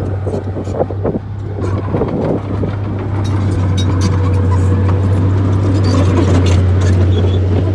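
Bulldozer's diesel engine running steadily, with frequent short rattles and clanks over it that grow busier partway through.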